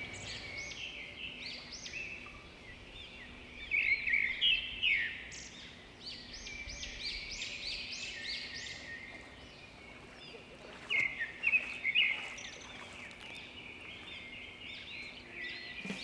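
Wild birds chirping and calling in quick repeated strokes over a faint steady hiss. The calls are busiest about four seconds in and again about eleven seconds in.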